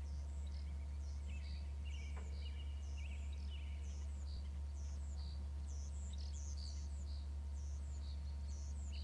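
A steady low hum, the loudest sound, under small birds chirping short high notes over and over, about one or two a second, with a brief higher trill in the first few seconds.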